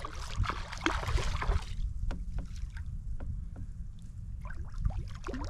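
Water splashing and sloshing beside a kayak as a hooked redfish thrashes near the boat. A noisy splash fills the first two seconds, followed by scattered light knocks and clicks over a steady low rumble.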